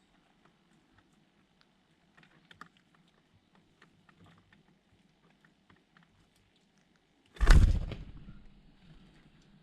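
Light, scattered taps and clicks of small birds pecking and hopping. About seven seconds in comes one loud, sudden thump with a rush of noise that dies away over a second or so.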